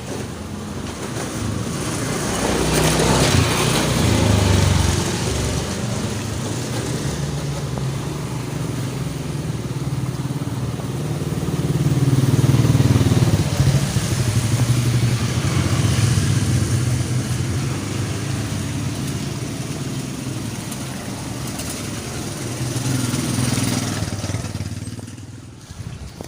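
Motorcycle engines running past, swelling louder a few seconds in and again about halfway, shifting in pitch as they go by, then dropping away near the end.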